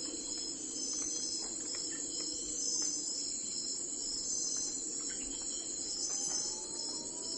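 Steady high-pitched chorus of insects chirring without pause, over a soft low steady hum.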